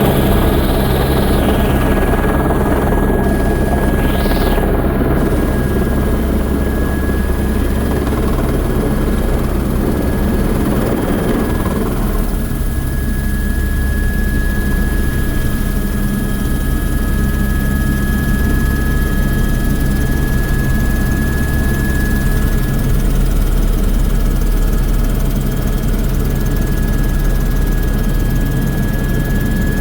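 Sightseeing helicopter's rotor and turbine running steadily in flight, with a constant high whine over a low, even drone. A rushing noise eases off about twelve seconds in.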